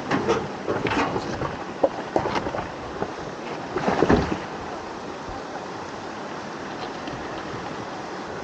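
River water splashing and rushing around a 4x4 driving through a rocky river crossing: a run of splashes in the first couple of seconds and another surge around four seconds in, then steady rushing water.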